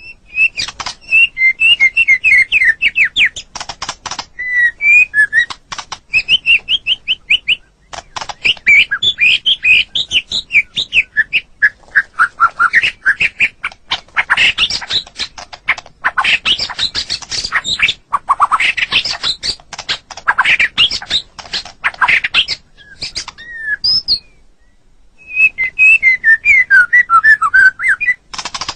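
White-rumped shama (murai batu) singing a loud, varied song of quick repeated notes and trills, in phrases broken by short pauses, with a longer pause about 24 seconds in.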